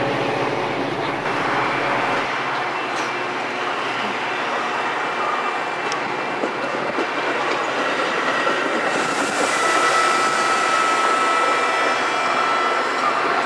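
A train running past on the tracks, with a steady loud noise of wheels on rail. A thin, steady, high metallic squeal comes in about two-thirds of the way through.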